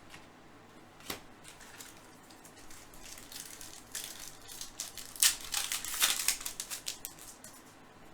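Crinkling and tearing of a foil baseball-card pack wrapper being handled and opened, loudest near the middle.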